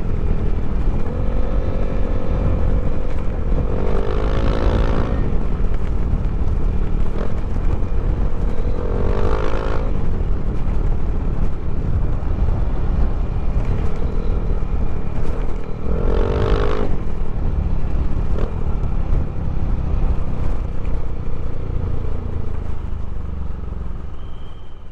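Yamaha Aerox scooter's single-cylinder engine, bored and stroked up to 200cc, running steadily with a heavy low rumble. It revs up and back down three times, about four, nine and sixteen seconds in.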